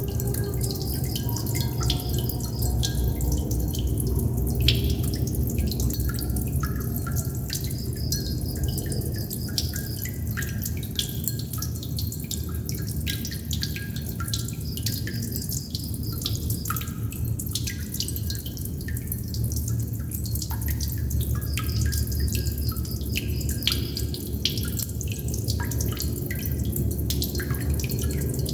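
Water droplets dripping irregularly, several drops a second, over a steady low rumble. A high, rapid pulsing trill comes and goes in the background.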